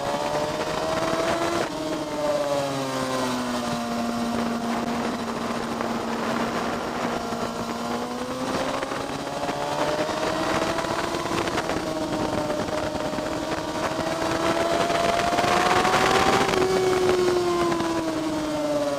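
A track motorcycle's engine heard on board, lapping at speed. The engine note drops sharply near two seconds in, like a gearshift, then climbs slowly under throttle. Wind rush rises with it to a peak about sixteen seconds in, after which the pitch falls away as the bike slows for a corner.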